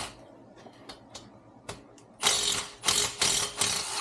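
Socket ratchet wrench clicking as a fastener is undone during an engine teardown: a few single clicks, then two longer rattling runs in the second half.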